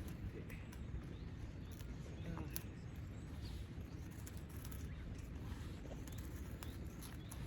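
Quiet outdoor ambience: a steady low background noise with scattered light ticks, and a few faint bird chirps.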